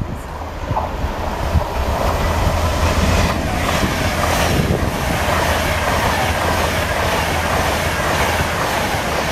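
Train passing through a station platform without stopping: a steady, loud rush of wheel and rail noise that builds about a second in and holds until near the end.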